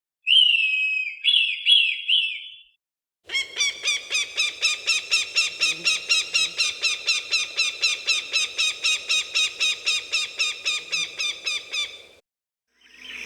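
Falcon calls: a few harsh cries with falling notes, then after a short pause a long run of rapid repeated calls, about five a second, that stops about a second before the end.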